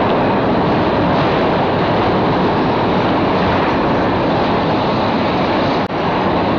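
Passenger train running across a steel truss railway bridge, heard from the carriage window: a loud, steady running noise from wheels and track, dipping for a moment near the end.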